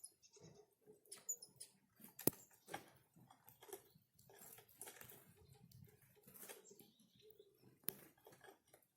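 Small birds feeding on seed: irregular pecking taps, scratching and rustling, with a sharper click about two seconds in and again near the end.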